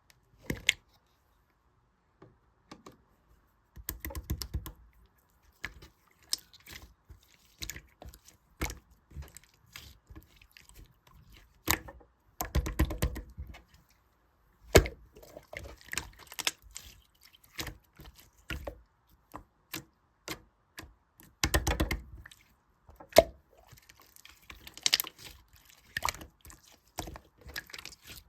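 Marbled slime being handled by hand, making sticky clicks and small wet pops, with denser stretches of crackling three times.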